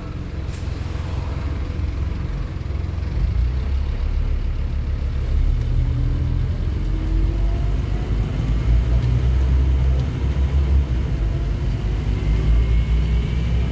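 Scania N230UD OmniCity bus's five-cylinder diesel engine and drivetrain running under way, a heavy low rumble that slowly builds in loudness, with faint rising whines as the bus picks up speed.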